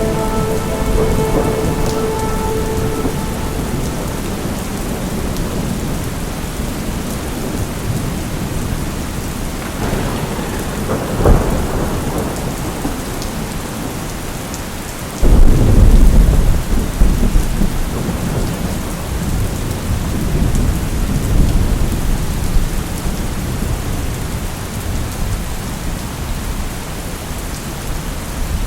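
Steady heavy rain with thunder: a sharp crack about 11 seconds in, then a loud low clap at about 15 seconds that rumbles on for several seconds, with further rumbles after it.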